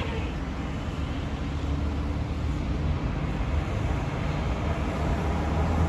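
Steady city traffic noise mixed with wind buffeting the microphone: a continuous low rumble of passing vehicles.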